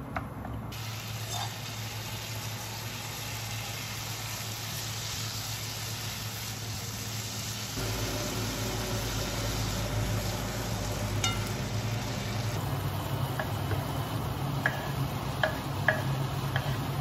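Kimchi frying in a pan, a steady sizzle, while it is stirred with a wooden spoon. Near the end come a few short, light knocks as diced meat is scraped off a wooden cutting board into the pan.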